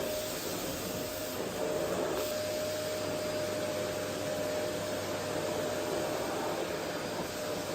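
Vacuum cleaner running steadily: a constant rush of air with a steady, high motor whine over a low hum.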